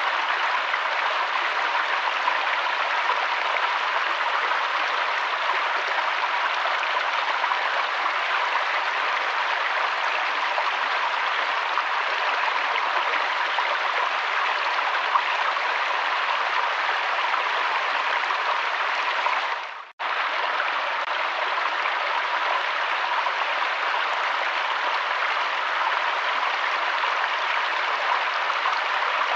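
Flowing river water rushing steadily as an even hiss. About twenty seconds in it fades out to silence within half a second and cuts straight back in.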